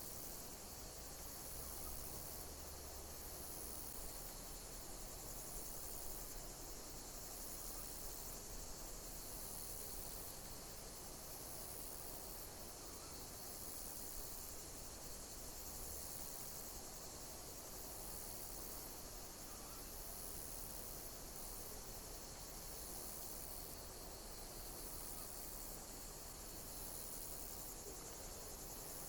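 Insects chirping: high-pitched chirps repeating about every two seconds over a steady background hiss.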